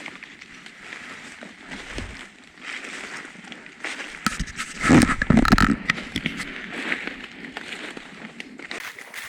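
Footsteps crunching and rustling through leaf litter and brush while hiking, with a louder burst of rustling and thumps about five seconds in.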